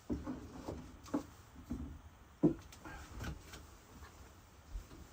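A few irregular light knocks and taps, about half a dozen scattered through, like objects being handled and set down.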